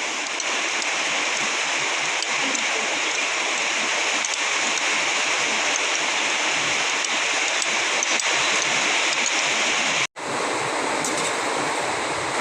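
Steady heavy rain pouring down, an even hiss with faint scattered drips. It cuts out for an instant about ten seconds in, then goes on.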